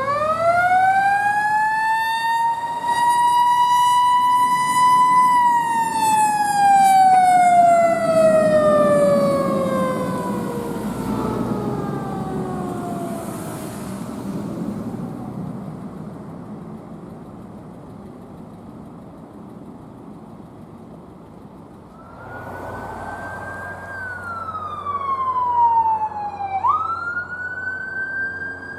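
Fire truck siren winding up to a high pitch, holding for a moment, then winding slowly down over several seconds, with the truck's engine rumbling underneath. Near the end a siren starts again, rising and falling and then jumping suddenly up in pitch.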